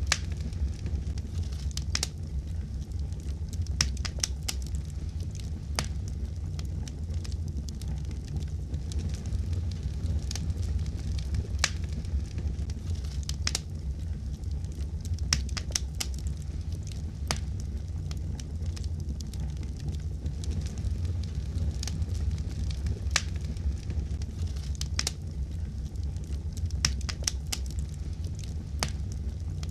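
Fire crackling: a steady low rumble of flames with sharp, irregular pops and snaps every second or so.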